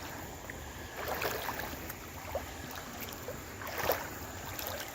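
Creek water splashing, with louder splashes about a second in and near four seconds, over the steady running of the stream.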